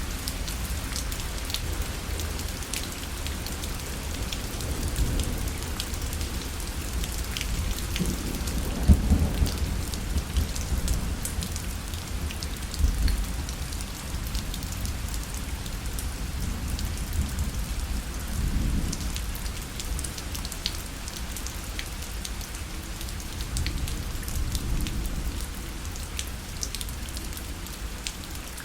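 Steady rain pattering on a parasol, with many separate drops ticking on the fabric. Low rumbles swell and fade several times, the strongest about a third of the way in.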